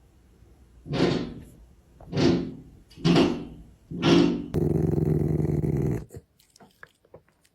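A dog barking four times, about a second apart, then a longer steady held sound that cuts off suddenly, followed by a few faint clicks.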